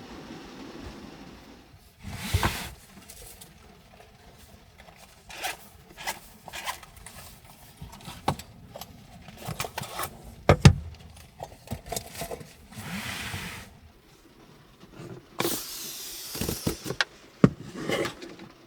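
Objects being handled at close range: a series of irregular knocks, clicks and scrapes, with a few short rustling bursts, the sharpest knocks about ten seconds in and again near the end.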